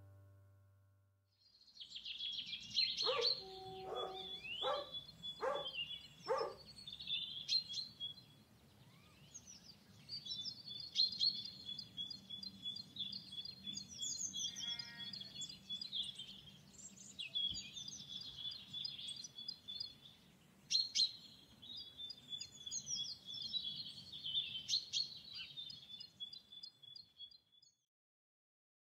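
Birdsong: many small birds chirping and trilling high, with a run of five sharper, lower calls a few seconds in, over a faint low rumble. It starts about a second and a half in and stops just before the end.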